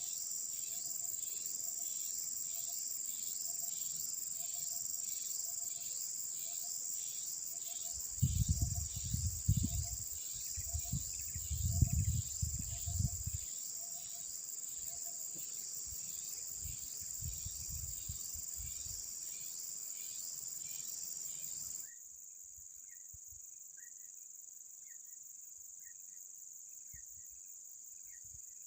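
Crickets and other insects trilling steadily at a high pitch with a regular pulsing rhythm. Low gusts of wind rumble on the microphone, loudest between about 8 and 13 seconds in and again briefly a few seconds later. About two-thirds through, the sound drops suddenly to a quieter insect trill with faint chirps.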